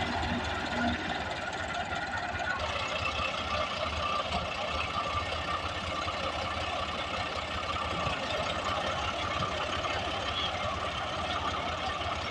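Tractor engine running steadily with a fast, even low knocking beat. The sound changes abruptly about two and a half seconds in.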